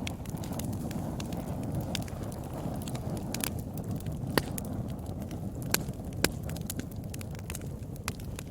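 Wood fire burning in a fireplace: a steady low rumble of flames with irregular sharp crackles and pops, the loudest about four and a half, six and six and a half seconds in.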